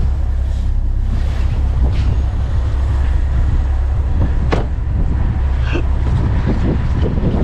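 Steady low wind rumble on the microphone over the noise of a car moving slowly, with a sharp click about four and a half seconds in.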